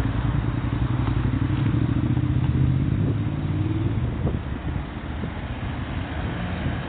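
A motor vehicle's engine passing close by, picked up through a phone's microphone: its hum grows louder and fades out about four seconds in, over street background noise.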